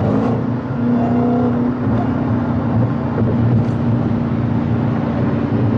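Car engine droning steadily over road noise, heard from inside a car cruising at highway speed.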